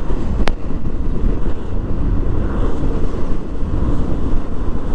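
Wind rushing over the microphone of a moving motorcycle, with a steady low rumble of the ride underneath. A single sharp click about half a second in.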